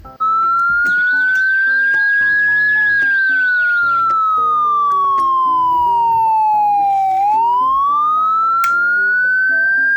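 Police-style siren wailing: a single clean tone starts suddenly about a quarter second in, rises slowly, then falls for about four seconds and rises again near the end. Background music plays underneath.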